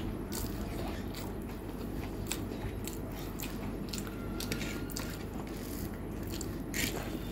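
Close-miked chewing of rice and egg omelette: irregular wet mouth clicks and smacks, with the soft sound of fingers mixing rice on the plate, over a steady low hum.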